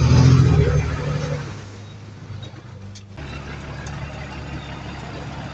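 Heavy diesel earthmoving machinery engine running, loudest in the first second or so and then easing off. A little after three seconds in the sound changes suddenly to a steadier, quieter engine drone.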